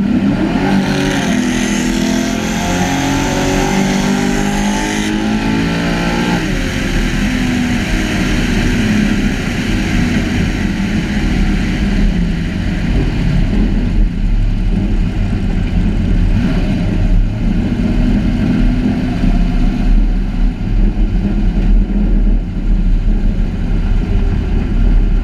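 Truck engine revving up hard and held at high revs for about six seconds, then dropping off sharply, followed by loud, uneven running with the revs rising and falling.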